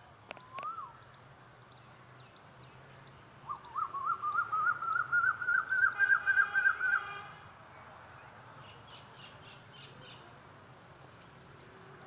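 A bird calling a rapid run of repeated notes, about five a second for nearly four seconds, rising slightly in pitch and growing louder before stopping. A short single call comes just before it, and faint high chirps follow it.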